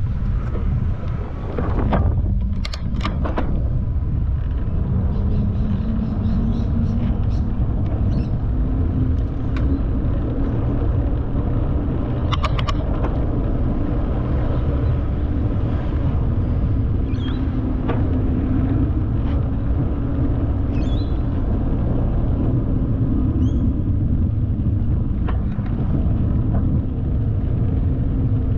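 Steady low rumble of cycling: wind buffeting the microphone and tyre noise on the path. A few sharp clicks and knocks come about two to three seconds in and again about twelve seconds in.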